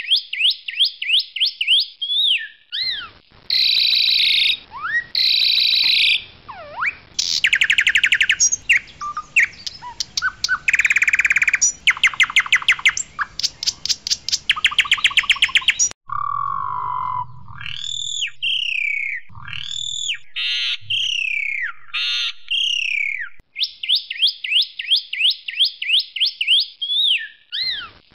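Asian pied starling (jalak suren) singing a loud, varied song. It has quick runs of repeated chirps, harsh notes, and rapid rattling trills in the middle, then slurred rising and falling whistles before the fast chirping runs return near the end.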